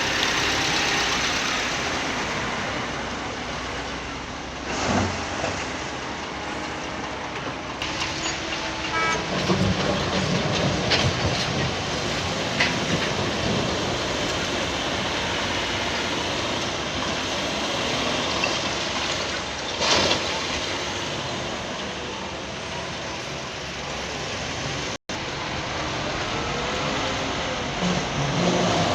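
Diesel engines of heavy quarry machinery and trucks running steadily, with a couple of sharp knocks, about five seconds in and again about twenty seconds in.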